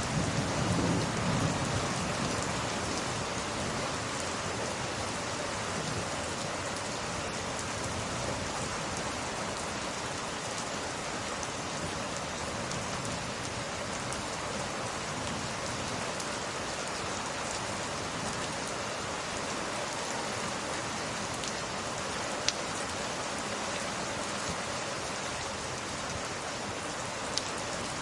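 Steady heavy rain, with a low thunder rumble dying away in the first couple of seconds. Two single sharp pops, typical of a log fire crackling, come late on.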